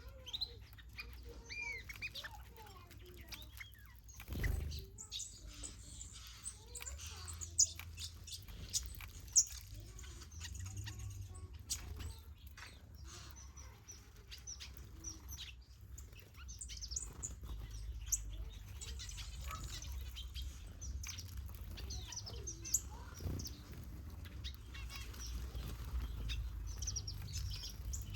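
Small aviary finches and softbills chirping and calling in short high tweets throughout, with scattered sharp clicks and a low thump about four and a half seconds in, over a steady low rumble.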